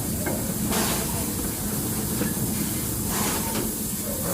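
Riding in a wagon behind a steam locomotive: a steady rumble of wheels on the rails, with steam hissing up briefly about a second in and again near the end.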